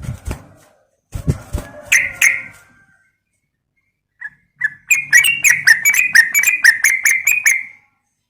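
Yellow-vented bulbul (trucukan) calling, played as a lure call: a few scattered notes mixed with a few thumps in the first two seconds. Then, about five seconds in, a loud, rapid chattering run of about a dozen sharp notes, roughly four a second, lasting about three seconds.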